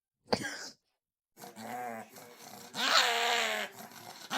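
A dog vocalizing: a brief sharp sound near the start, then drawn-out vocal sounds that waver up and down in pitch, loudest about three seconds in.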